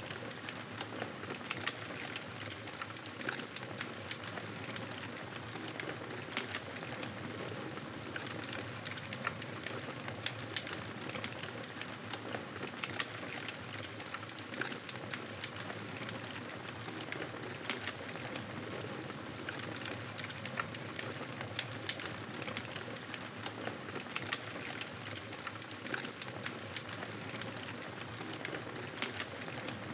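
Campfire burning with a steady hiss and frequent small sharp crackles and pops of burning wood.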